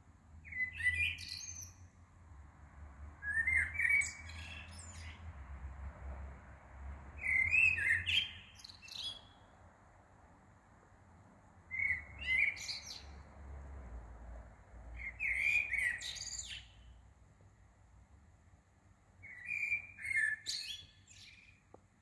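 A songbird singing: six short warbling phrases, each about a second long, with pauses of two to three seconds between them.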